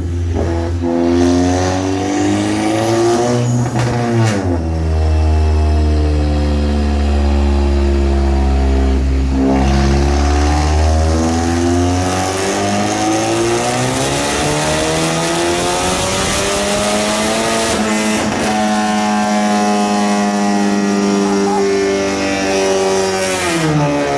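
Car engine on a chassis dyno making a fourth-gear wide-open-throttle pull, climbing steadily in pitch for many seconds with a brief break partway, then winding down near the end as the run finishes.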